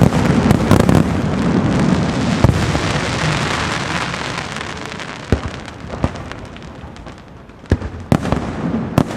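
Castillo fireworks display: a dense mass of crackling and bangs that fades away over several seconds, then single sharp shell bursts going off near the end.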